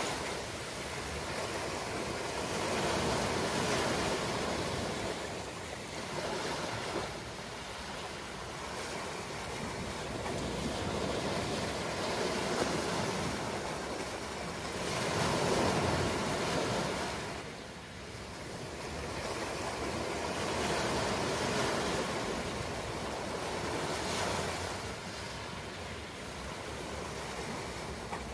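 Ocean surf: waves breaking and washing up, the rushing hiss swelling and fading every few seconds.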